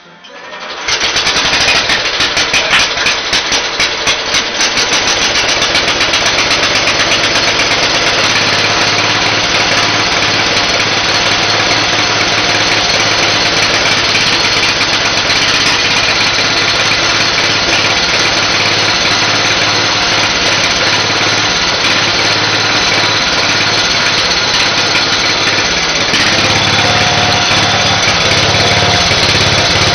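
Speedex S24 garden tractor engine starting from cold on full choke at about half throttle. It catches about a second in, runs unevenly for the first few seconds, then settles into a steady run, with a change in its note near the end.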